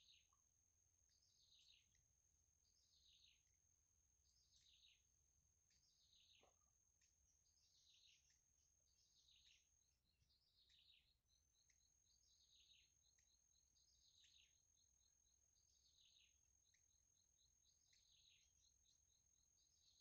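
Very faint bird calls: a short falling chirp repeated about every second and a half, over a steady thin high whine. A fast run of faint ticking joins in about halfway through.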